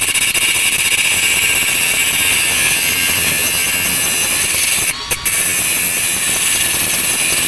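Power grinder grinding down a metal axle shaft so a bearing will fit: a loud, steady, high grinding hiss that breaks off briefly about five seconds in.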